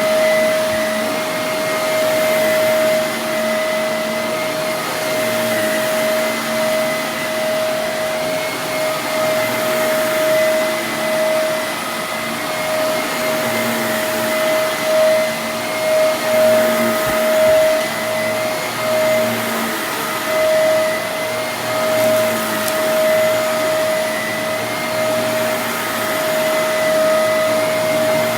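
Vacuum cleaner running steadily, a constant motor whine over rushing airflow, its loudness swelling and easing slightly.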